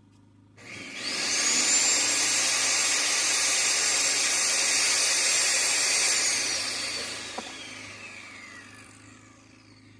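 A small high-speed electric tool motor switched on, spinning up quickly to a steady high whine with a rushing hiss, then switched off and winding down, its pitch gliding down as it coasts to a stop.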